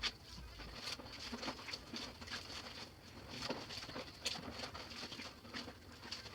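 Clothes being washed by hand in a basin of water: irregular splashing and dripping.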